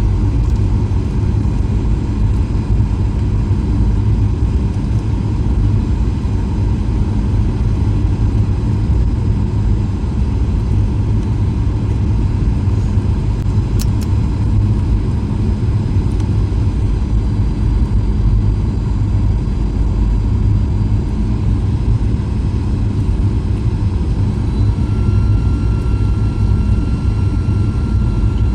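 Cabin noise inside a Boeing 737-800: the steady, even rumble of its CFM56 jet engines and the airflow around the fuselage. A faint steady whine joins in near the end.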